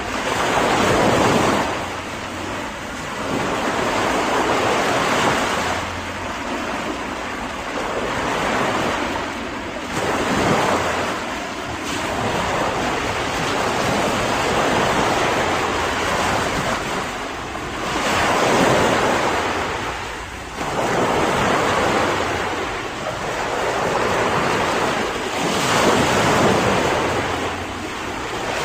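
Ocean waves breaking and washing up the shore in repeated surges every two to three seconds, with some wind.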